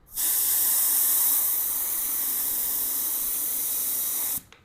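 Compressed air hissing steadily through a tire inflator into a freshly mounted motorcycle tire. It is being filled above normal pressure to seat the bead. The hiss cuts off abruptly near the end.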